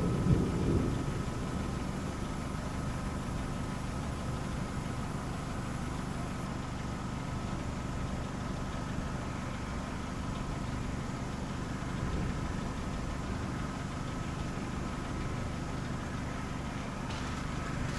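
Steady low hum of an idling car engine. A louder low rumble dies away in the first second.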